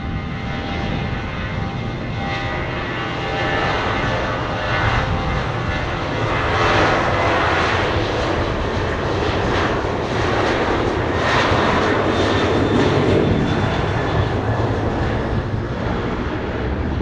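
Airliner's engines passing close by: a loud roar with a steady whine in it, building to its loudest midway and then fading.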